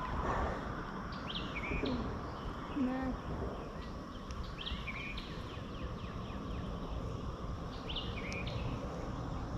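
A bird calling with short high chirped calls, repeated three times, over steady outdoor background noise.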